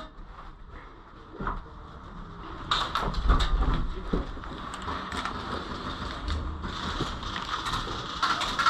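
Rustling noise with scattered sharp clicks and knocks, over a low rumble.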